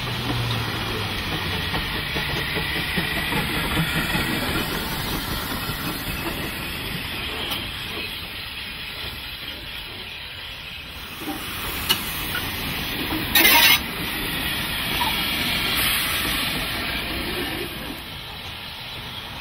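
Narrow-gauge steam train running, with a steady hiss of steam. About two-thirds of the way through comes a short, loud hiss lasting about half a second.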